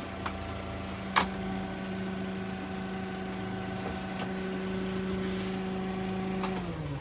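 Tractor diesel engine running at a steady speed, then slowing down with a falling pitch near the end. A few sharp clicks or knocks are heard over it, the loudest about a second in.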